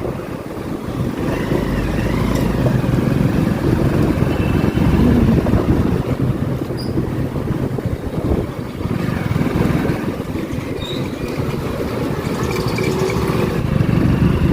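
Motorcycle engine running under way, mixed with wind rushing over the microphone and road noise. It grows louder over the first few seconds and dips briefly about eight seconds in.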